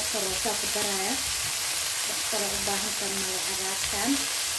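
Shredded leafy greens sizzling as they fry in a metal pan, being stirred. A voice is heard on and off in the background.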